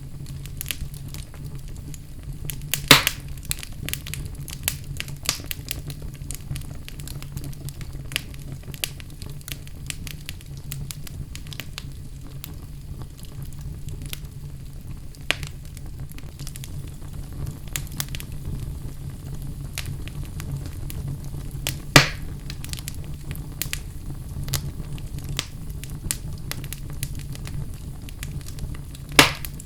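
Wood fire burning in a fireplace: a steady low rumble with frequent small crackles and three louder pops, about 3 seconds in, past the middle, and near the end.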